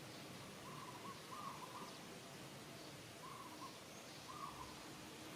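A bird calling from the surroundings: short call phrases in pairs, the pair repeated about every three seconds, over faint steady background noise.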